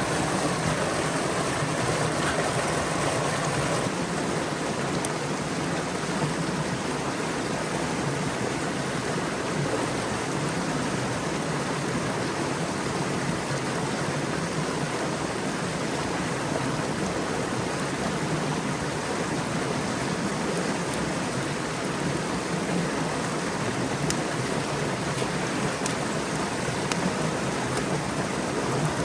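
Stream water rushing and splashing steadily.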